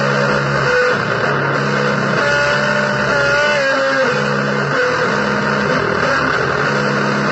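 Loud, harsh distorted noise music in a blues vein. A low figure repeats about once a second under a thick wash of noise, and higher sliding notes wander above it.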